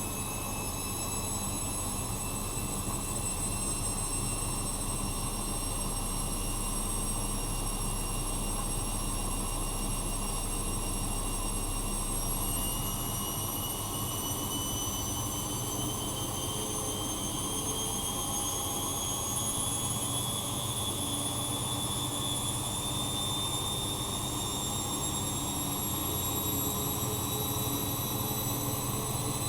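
Bosch Maxx Advantage WFCX2440 slimline washing machine spinning, its motor whine climbing slowly in pitch as the drum speeds up.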